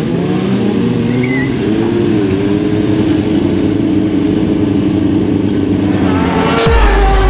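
Motorcycle engine running, its pitch rising and falling as it revs, then holding steadier. Near the end, music with a heavy bass beat cuts in.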